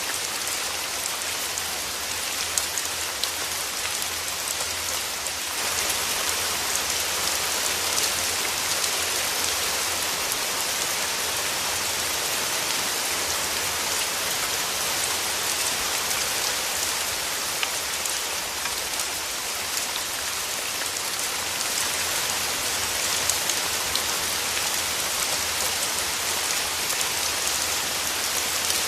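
Steady rain falling, a dense hiss with many small drop ticks, growing slightly heavier about five seconds in.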